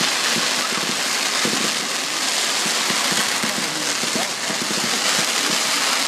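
Fireworks crackling densely and steadily, a rain-like hiss of many small pops with no single big bang.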